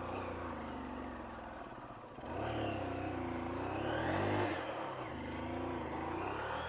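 Old motorcycle engine running under way, its pitch rising and falling in repeated waves. It dips about two seconds in, then runs louder again.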